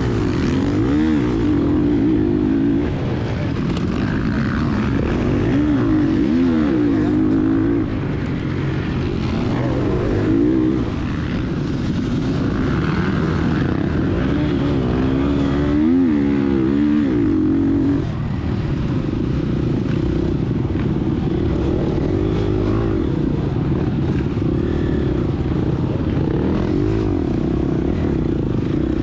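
Gas Gas EX250F's 250 cc single-cylinder four-stroke dirt bike engine under hard riding, revving up and falling off again and again through turns and gear changes.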